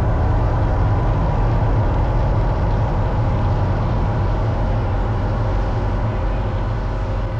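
Deep, steady rumble of the Mirage volcano eruption show, easing slightly near the end.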